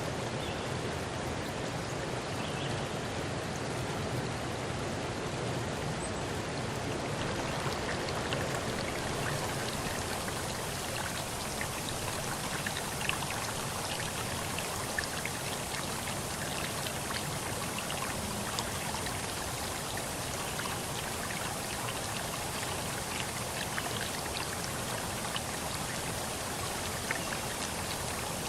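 Water rushing and pattering steadily, with many small droplet ticks scattered through it; the sound turns hissier about nine seconds in.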